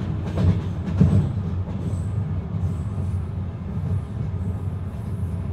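Moving passenger train heard from inside the carriage: a steady low rumble, with a few knocks from the wheels in the first second.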